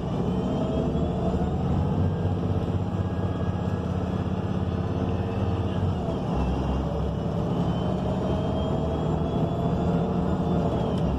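Inside a 2019 ENC Axess city bus under way: its Cummins Westport L9N natural-gas engine and Voith automatic transmission run with a steady low rumble and a rising whine. The whine drops about six seconds in and then climbs again.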